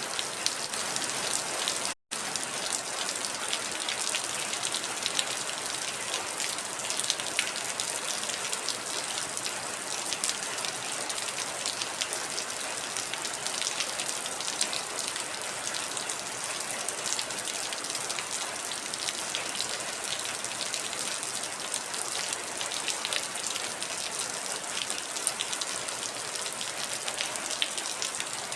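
Heavy rain falling steadily, a dense hiss of water with many distinct drop hits. There is a split-second break in the sound about two seconds in.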